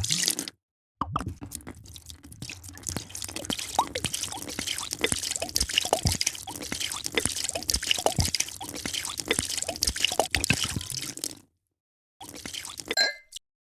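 A drink being poured into a glass: steady pouring with many small bubbling pops and gurgles, in separate takes cut apart by moments of dead silence. Near the end there is a short ringing tone.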